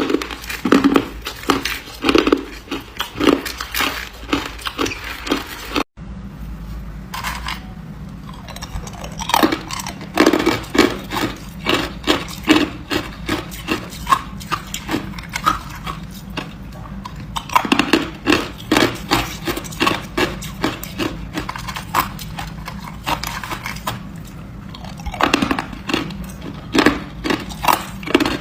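Hard ice being bitten and chewed, with rapid runs of sharp crunches that come and go in clusters. There is a brief break in the sound about six seconds in.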